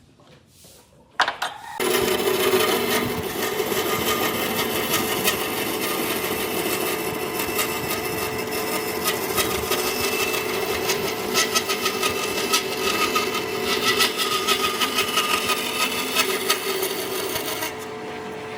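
Electric power tool working wood: a steady motor whine under the hiss of cutting or sanding. It starts about two seconds in and cuts off near the end.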